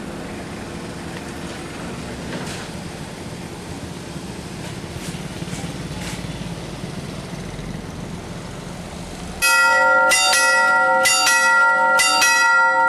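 A train passing with a steady rumble. About nine and a half seconds in, a level-crossing warning bell cuts in abruptly and much louder, ringing in rapid repeated strikes of about three a second.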